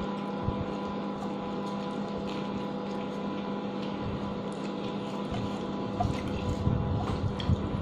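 Close, wet chewing and mouth sounds of someone eating rice and chicken adobo by hand, with a few soft knocks near the end, over a steady background hum.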